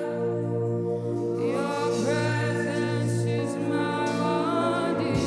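Live gospel worship music: sustained keyboard chords with sung, gliding vocal lines coming in about a second and a half in.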